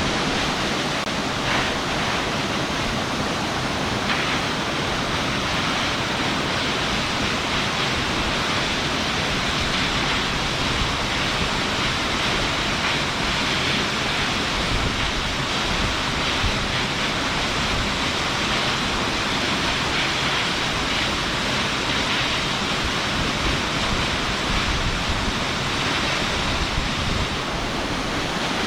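A waterfall pouring: a steady, unbroken rush of falling water.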